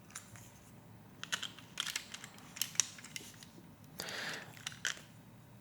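Plastic Lego Technic pieces clicking and clacking as they are handled and pressed on, in irregular small clicks with a short rustle about four seconds in.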